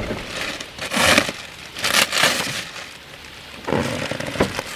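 Plastic wrapping on a mattress topper crinkling and crackling in three bursts as it is pulled and unrolled.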